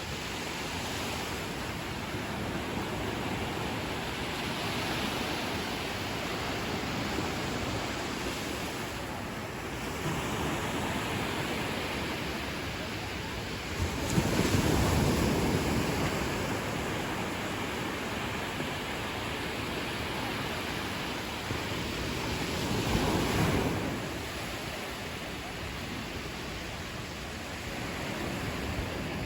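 Ocean surf washing steadily onto a beach. A louder wave breaks suddenly about 14 seconds in, and another swells up and breaks around 23 seconds.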